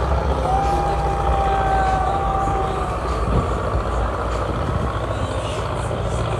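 Engine of a river trawler boat running steadily with a constant low drone.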